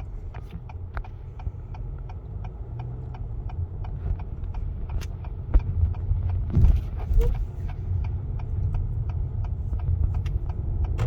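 Car running, heard from inside the cabin: a steady low engine and road rumble with an even ticking about twice a second, like a turn-signal indicator. The rumble swells briefly with a short rising tone about six seconds in.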